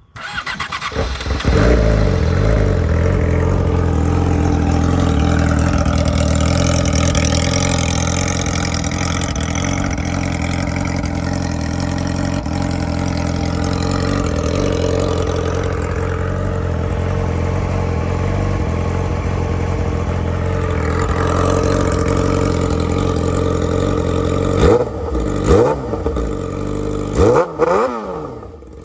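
A 2008 Yamaha R6's inline-four is cranked and catches about a second and a half in. It then idles loud and steady through a Hotbodies shorty exhaust with the muffler and catalytic converter deleted. Near the end the throttle is blipped four times in quick revs.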